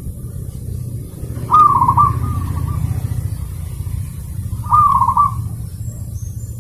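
Zebra dove (perkutut) cooing twice, each a short trilled coo, about three seconds apart. Under it runs a steady low rumble, and faint high chirps come near the end.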